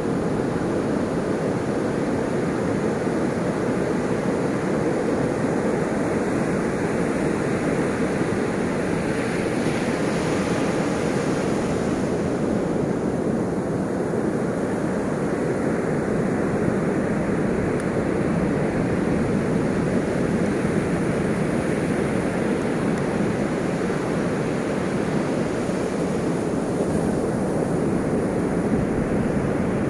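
Ocean surf: waves washing continuously in a steady rush, with one wave swelling brighter about ten seconds in.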